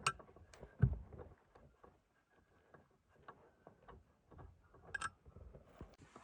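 Scattered light clicks and knocks at irregular intervals, with a dull thump about a second in and sharper clicks near the start and about five seconds in.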